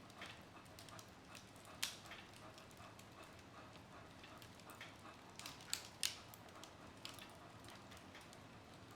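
Wood fire in a fireplace crackling: scattered small pops over a soft, steady hiss, with a sharper pop about two seconds in and two more close together about six seconds in.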